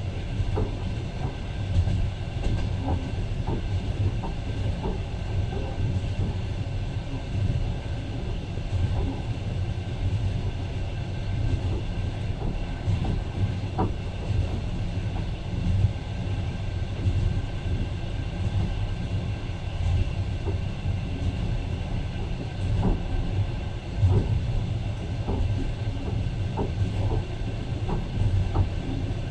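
A passenger train running, heard from inside the carriage: a steady low rumble of wheels on the track with scattered clicks and knocks.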